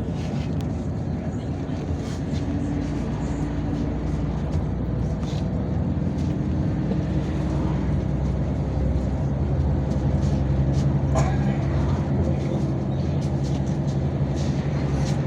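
Yutong ZK6128HG city bus under way, heard from inside: the engine's low drone with road noise, its pitch shifting as it changes speed and growing a little louder in the second half.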